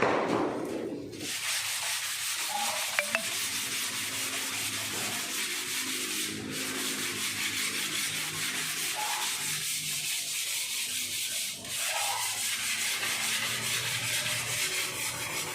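Sandpaper rubbing over cured body filler on a car panel, sanding it down thin. A steady scratchy hiss starts about a second in and breaks off briefly twice, about six and twelve seconds in.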